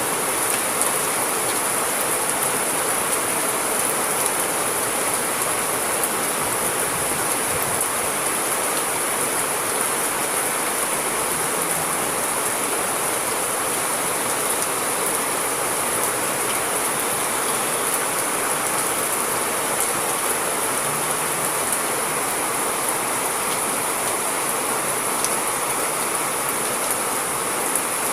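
Steady heavy rain, a continuous even hiss with faint scattered drop ticks.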